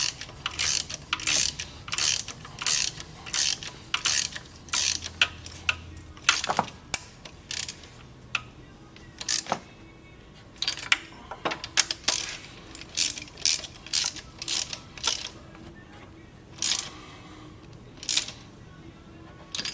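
Hand ratchet wrench being worked back and forth, a short burst of clicks on each stroke. The strokes come about three a second at first, then slower and irregular with short pauses.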